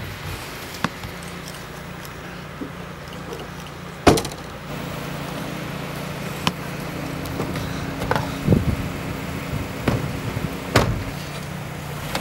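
A vehicle engine idling with a steady low hum, under a handful of sharp thumps; the loudest thump comes about four seconds in.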